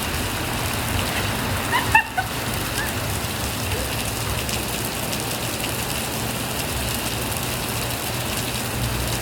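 Rain falling steadily and hitting the surfaces around, with one brief louder sound about two seconds in.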